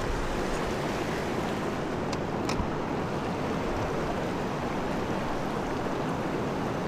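Fast-flowing mountain stream water rushing, a steady loud rush.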